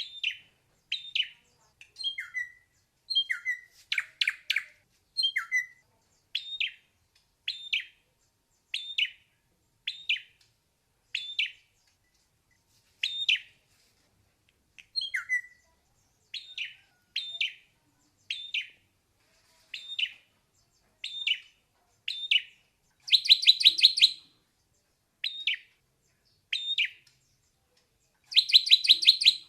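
Ashy drongo singing: a steady series of short, clear notes about one a second. Twice, about three-quarters through and again near the end, come louder bursts of rapid rattling notes.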